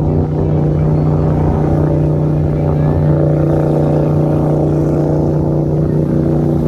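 Boat engine running steadily at a constant speed, with an even, droning hum.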